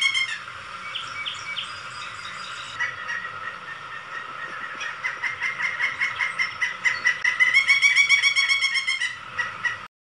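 Woodpecker calling: a long rapid series of short, sharp notes, about eight a second, quieter for a few seconds after the start and louder again about seven to nine seconds in, then cutting off suddenly.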